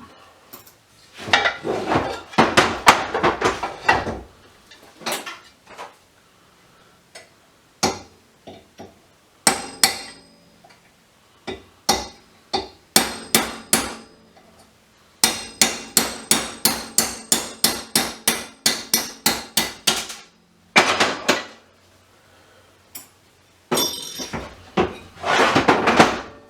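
Hammer striking a metal drift punch to drive a part out of a variable frequency drive: runs of quick, sharp metallic blows, steadiest at about four a second, broken by short pauses.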